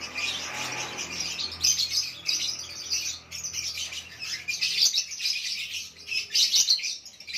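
Lovebirds chattering: a dense, unbroken run of short, high-pitched chirps and squeaks.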